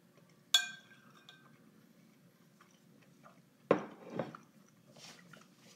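Cutlery against a plate of fried rice: one sharp clink with a short ring about half a second in, then two louder knocks or scrapes a little before four seconds and a softer scrape near the end.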